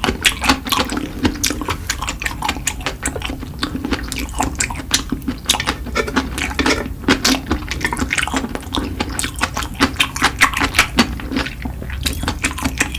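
Close-miked mukbang eating sounds: wet chewing and mouth smacking, a dense, irregular run of quick wet clicks.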